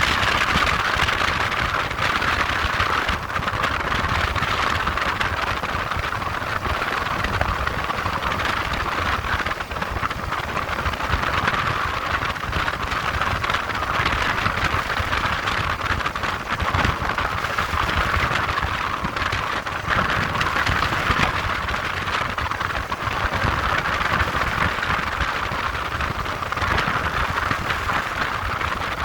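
Motorcycle running steadily with an even hiss of wind or road noise over a low engine rumble, level throughout with no revving.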